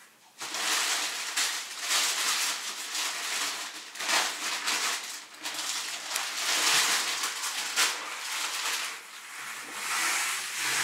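Plastic packs of frozen vegetable mix rustling and crinkling as they are handled, in irregular crackly bursts.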